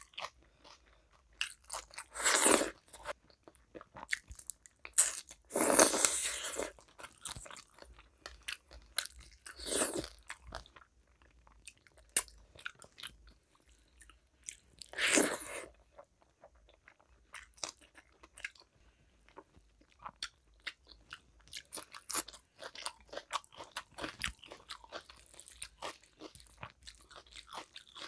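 Close-miked eating of rice and fish curry by hand: steady chewing with many small mouth clicks and smacks. About four times, a louder sound lasting up to a second stands out.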